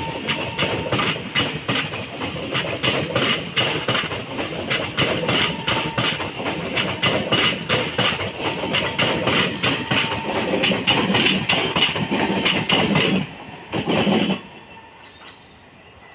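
Indian Railways coaches passing close at speed: a steady rumble with rapid clickety-clack of the wheels over the rail joints. The sound drops away sharply near the end after a last brief burst.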